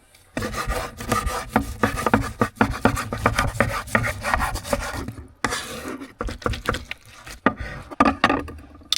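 Knife sawing through a fire-roasted steak, rapid repeated rubbing strokes with a short pause a little past halfway.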